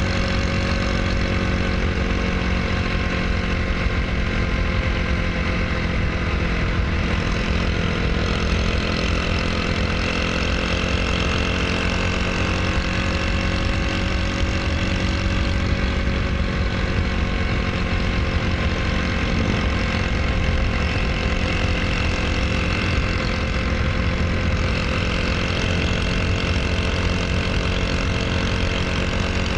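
Honda Super Cub's single-cylinder engine, fitted with a SHIFTUP 110 bore-up kit, running steadily at a constant speed.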